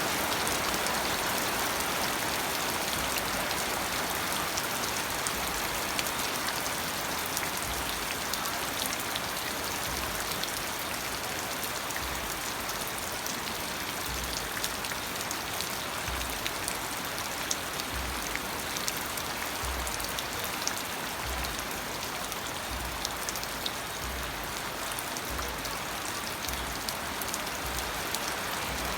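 Steady rain falling, with many distinct drops ticking on a surface and faint low thuds every second or so.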